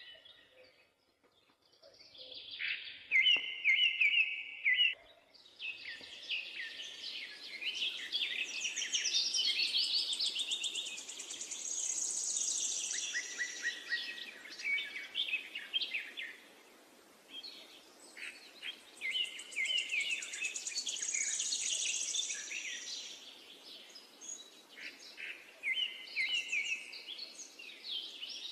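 Birds singing in repeated bouts of quick chirps and trills, with a steady low background noise under them.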